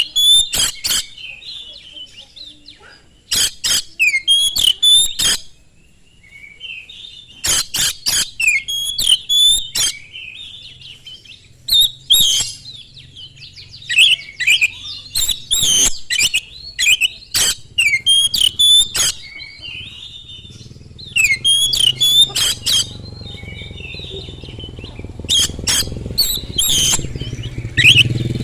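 Oriental magpie-robin (kacer) singing loudly in bouts: whistled notes mixed with fast, harsh clicking rattles, broken by short pauses. In the last third a low rumble builds up underneath.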